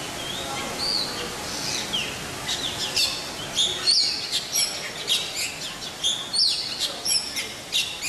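Birds chirping: scattered short calls at first, turning into a busy run of quick, high chirps after a couple of seconds.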